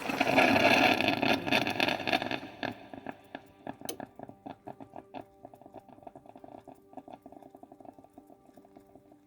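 Krups FPB145000P coffee machine pushing water through its circuit during a test: a sudden loud hissing rush for about two and a half seconds, then irregular spluttering clicks that thin out and fade. Faint background music underneath.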